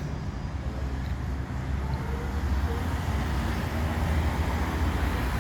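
Road traffic noise: a motor vehicle running on the avenue, a steady low rumble that gets louder about two seconds in.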